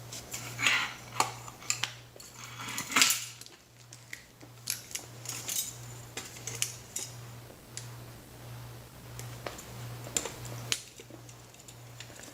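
Hand tools clicking and clinking as ceiling fan wires are cut and handled: irregular sharp metallic clicks and short rustles, the loudest about three seconds in. A steady low hum runs underneath.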